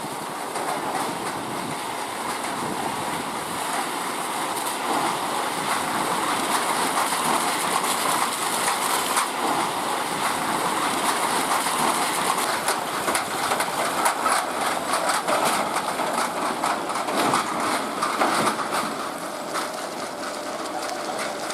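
Heavily loaded truck driving over a broken, rough road: steady road and engine noise with constant rattling and knocking from the body and load.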